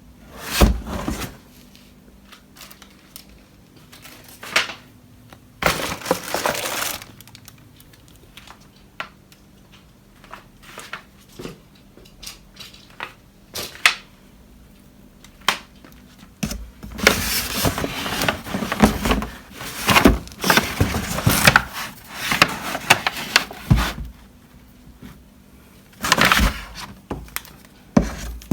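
Cardboard and plastic packaging being handled while lawnmower parts are unpacked from a box: crinkling and rustling with scattered knocks, in short bursts and then a long busy stretch of handling through the middle.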